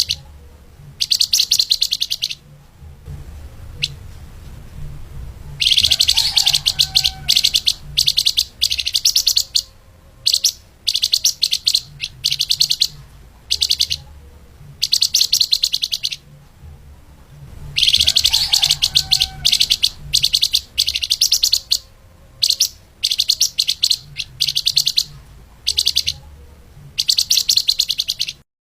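Flamboyan (lemahan) songbird singing in fast, tightly packed bursts of high, rapid-fire chirps, each phrase a second or two long with short pauses between, in the quick, dense 'speed rapat' style.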